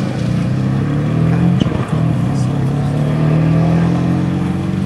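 Rally car engine pulling hard, its note rising through a gear. There is a brief drop near two seconds in as it changes up, then it climbs and holds steady.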